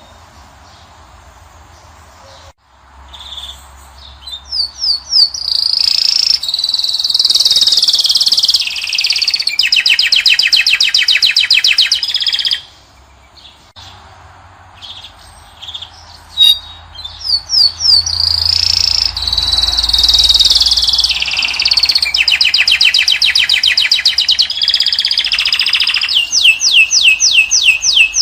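European goldfinch of the Moroccan strain singing its full song: two long bouts of rapid twittering and warbling, each with fast trills, separated by a short pause.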